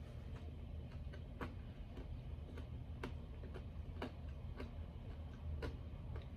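Close-miked chewing of dry breaded chicken nuggets: sharp mouth clicks at irregular intervals, about one or two a second, over a steady low hum.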